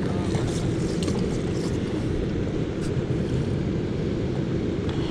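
Steady low rumble of wind buffeting the action camera's microphone, with a few faint ticks.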